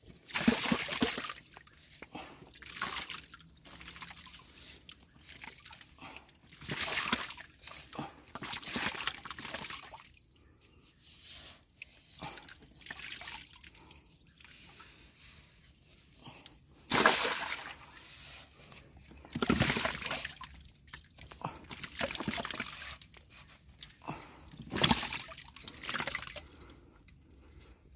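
Irregular rustling and crackling of leaves, twigs and nest material being handled, in bursts of a second or so with quieter gaps between.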